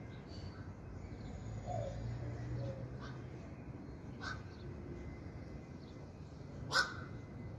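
Outdoor background with faint scattered bird chirps, then one short, loud, harsh bird call near the end.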